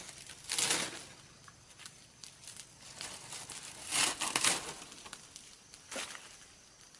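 Rustling, crinkling noises in a few short bouts: one about half a second in, a stronger one around four seconds, and a smaller one near six seconds.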